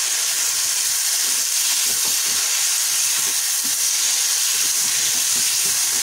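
Sabudana khichdi (soaked tapioca pearls with diced potato and tomato) frying in a non-stick pan: a steady sizzling hiss, with the irregular scrape and stir of a spatula turning it over.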